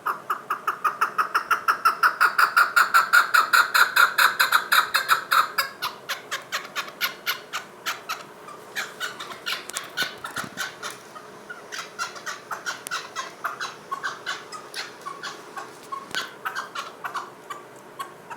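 Chukar partridge calling: a long run of rapid clucking notes, about seven a second, growing louder over the first few seconds, then carrying on more softly.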